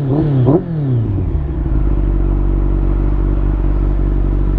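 Liter-class motorcycle engine running steadily under way, with a brief rise and fall in pitch in the first second, over steady wind and road noise.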